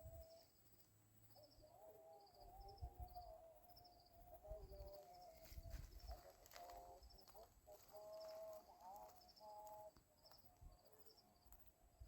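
Faint bird calls: short high chirps repeating through the whole stretch, and wavering mid-pitched calls in the middle.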